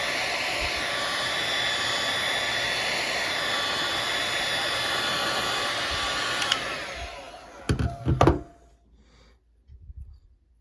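Electric heat gun blowing a steady rush of hot air to shrink heat-shrink tubing onto a phone charging cord. About six and a half seconds in it cuts off with a click and its fan dies away, with a few sharp knocks just after.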